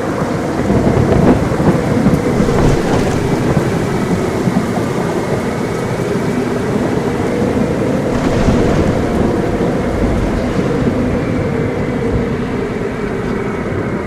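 Thunderstorm: steady heavy rain with thunder rumbling, swelling louder about a second in and again around eight seconds.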